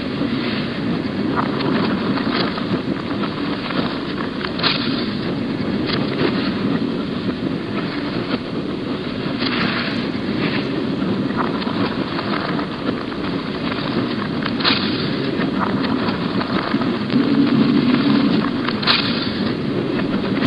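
Narrow-gauge train running along the line: a steady rumble with irregular sharp clicks every few seconds.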